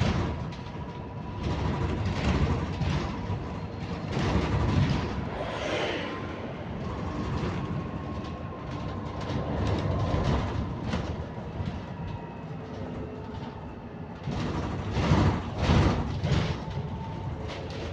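Ride noise inside a moving London bus: the drivetrain runs with a steady whine over low road rumble and body rattle, swelling louder several times as the bus moves between stops.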